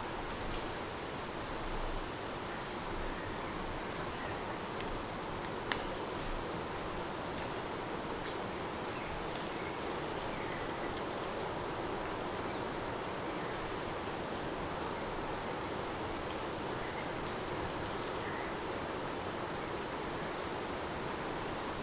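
Steady rain ambience with short, high chirps from birds or insects, thickest in the first half, and a few sharp clicks.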